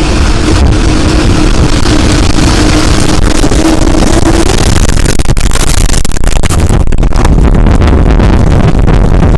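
Tornado passing over a house: a loud, continuous roar of wind and rumble, with a steady droning tone through the first half. From about halfway on, many sharp cracks and knocks of debris and the house breaking up sound through the roar.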